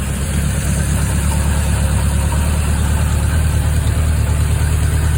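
Honda CB750A's air-cooled inline-four motorcycle engine idling steadily just after starting, its exhaust pipes joined with temporary cardboard joints; the idle is nice and quiet rather than unmuffled.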